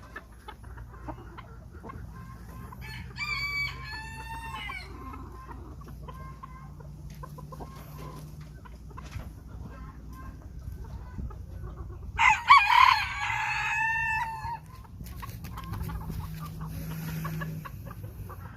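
White bantam Phoenix rooster crowing twice: one crow about three seconds in, and a louder one around twelve seconds in, each falling in pitch at its end. Between the crows there are softer chicken clucks and small clicks over a low, steady hum.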